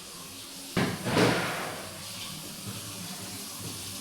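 Water gushing from a tap: a sudden rush about a second in, then it runs steadily.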